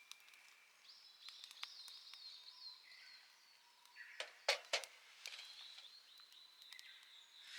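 Several small birds singing and calling, with warbling high notes overlapping throughout. A few sharp clicks come about four and a half seconds in.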